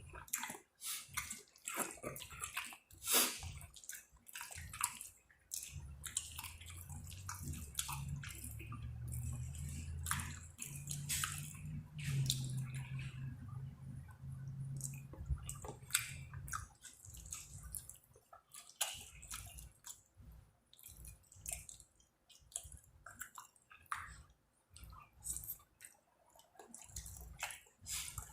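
A person eating creamy seafood alfredo pasta close to the microphone: wet chewing, slurping and lip-smacking, with many short irregular clicks. A low hum sounds for about ten seconds in the middle.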